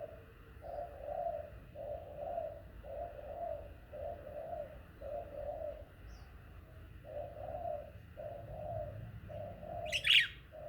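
A dove cooing in a steady run of low, evenly spaced notes, with one sharp, high, falling bird chirp near the end.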